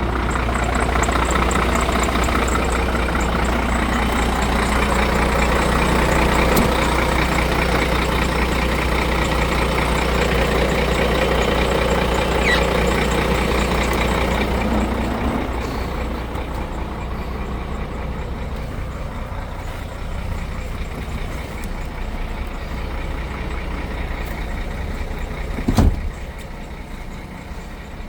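Scania P114 truck's DC11 11-litre six-cylinder diesel engine running steadily, easing to a quieter, lower note about halfway through. A single sharp thump near the end.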